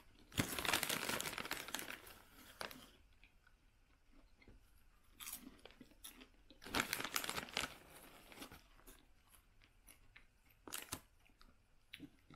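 Close-up chewing of soft popcorn and a plastic snack bag crinkling as a hand digs into it, in irregular bursts; the longest and loudest crinkling comes in the first couple of seconds, with shorter bursts later.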